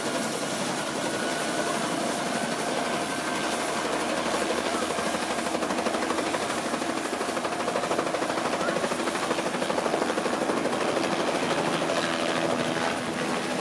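Helicopter running in flight: dense, steady rotor and engine noise with a thin, steady whine above it.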